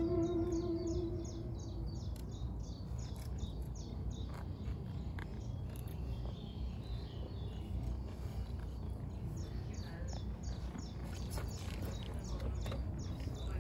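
A songbird singing quick runs of short, high repeated chirps, about four a second, which stop for a few seconds in the middle and then start again. Under it is a steady low outdoor rumble, and a held note from the band fades out at the very start.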